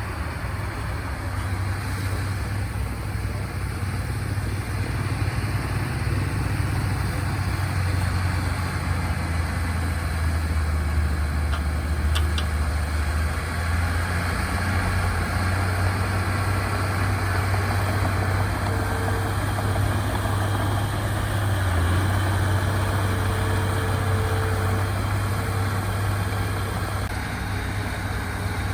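Diesel engines of earthmoving machinery running steadily with a low, even hum.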